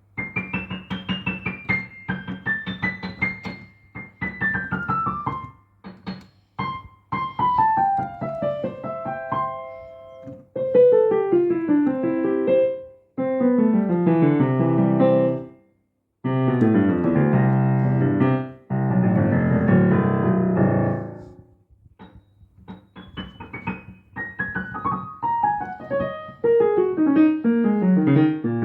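Yamaha Arius YDP-142 digital piano being played: several fast runs falling from the top of the keyboard to the bottom, and a stretch of loud, dense chords in the middle, with a few short breaks between passages.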